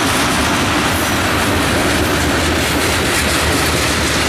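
Freight cars of a CSX manifest train, tank cars and covered hoppers, rolling past close by, their steel wheels running on the rails; steady and loud.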